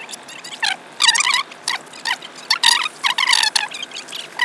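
Small birds chirping: a quick string of high chirps and short fast trills, a few of them sliding downward.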